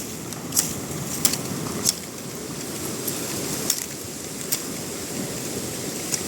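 A handful of sharp, irregular clicks or snaps over a steady background rush.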